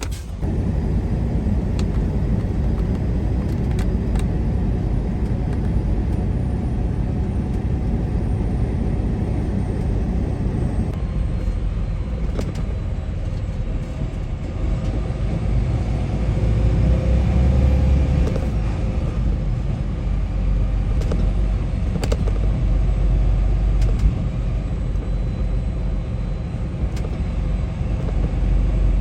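Semi truck driving, heard from inside the cab: a steady low road and engine rumble, with a few faint clicks scattered through.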